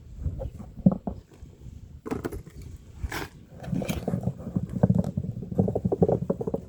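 Hands digging and rummaging through loose soil in a potato grow container, with crackling rustles and small knocks from potatoes and dirt being handled. The rustling grows denser and busier about halfway in.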